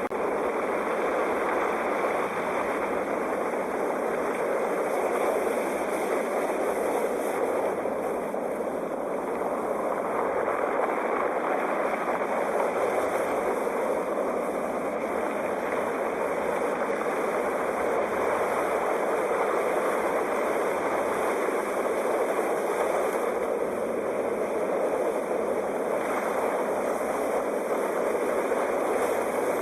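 Sea waves: a continuous wash of surf that eases and swells slowly over several seconds.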